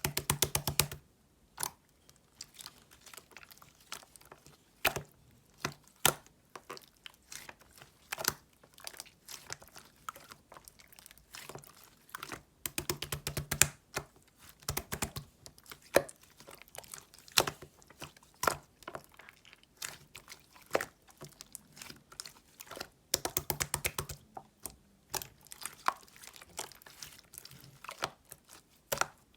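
Slime being squished and poked by hand: a string of sticky clicks and small pops, with quick crackling runs near the start, in the middle and about four-fifths of the way through.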